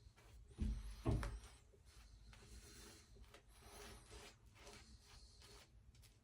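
Boar-bristle shaving brush swishing and rubbing as it works up lather, with two dull thumps about half a second and a second in.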